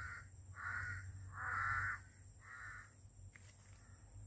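A bird calling over and over: four short calls, the third, about a second and a half in, the longest and loudest. A steady high-pitched tone runs underneath.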